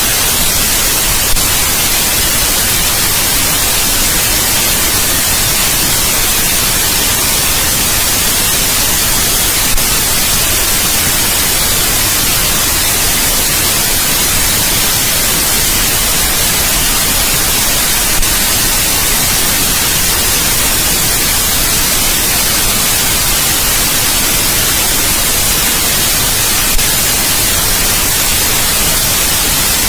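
Steady white noise: an even, unbroken hiss, strongest in the high end, with a slight tick about every eight and a half seconds.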